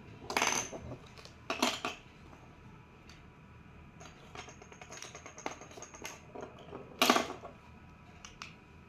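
Pieces of a magnetic building toy, magnetic sticks and balls, clicking and clattering as they are handled and snapped together. There are three louder clatters: about half a second in, near two seconds in, and about seven seconds in. Lighter clicks come in between.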